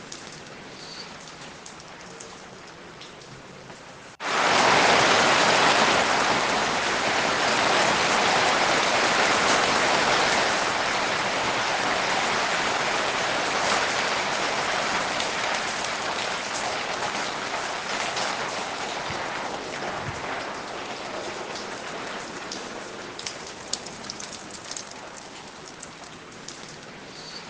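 Rain falling with scattered drops; about four seconds in it suddenly swells into a much louder, dense rush of heavy rain that gradually eases off over the next twenty seconds, back to a lighter patter near the end.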